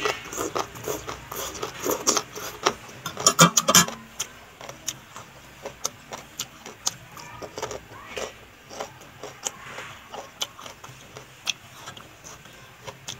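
Close-up chewing and mouth sounds of a person eating papaya salad with noodles: wet smacks and clicks, many and loud in the first four seconds, then sparser.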